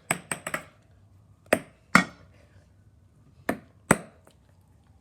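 A small ball bouncing off hard surfaces in sharp, light clicks: a quick run of bounces at the start, then two pairs of bounces, each pair about half a second apart, about a second and a half in and again about three and a half seconds in.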